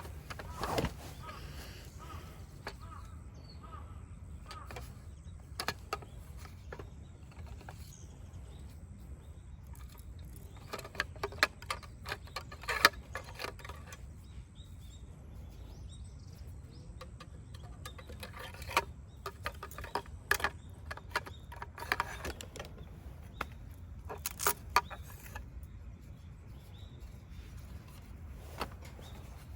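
Scattered clicks, clinks and knocks in irregular clusters, thickest in the middle and later part, over a steady low rumble.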